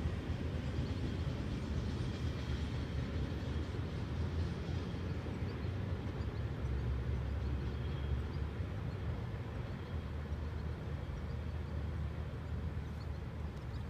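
Low rumble of a freight train receding down the line, fading slowly.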